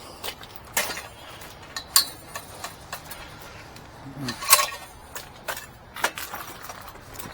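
Scattered sharp clicks and knocks of hard objects, irregular, loudest about two seconds in and again about four and a half seconds in.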